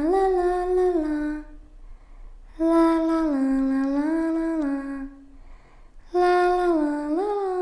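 A voice humming a slow tune: long held notes that glide up and down between pitches, in three phrases with short breaks between them.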